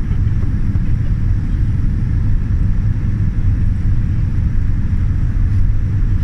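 Steady low rumble of a Boeing 787 Dreamliner heard from inside the cabin, even throughout with no distinct events.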